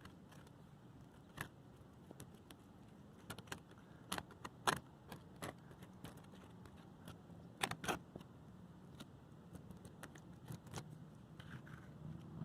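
Faint, irregular clicks and scrapes of a trowel working wet roofing cement into holes on a flat roof, with a few sharper clinks about four to five seconds in and again near eight seconds.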